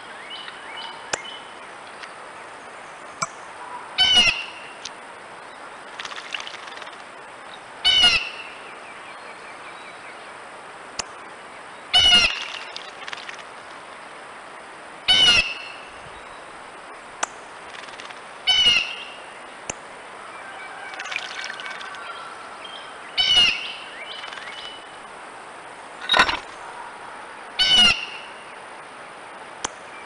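A bird out of sight calling eight times: short, loud calls spaced about three to four seconds apart, with a few fainter chirps between them, over a steady hiss from the trail camera's microphone.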